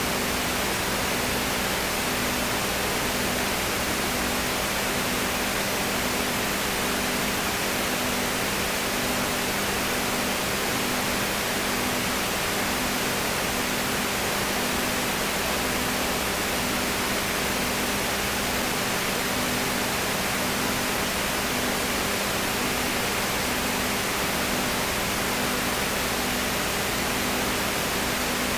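Steady, fairly loud hiss with a low hum underneath that pulses about once a second.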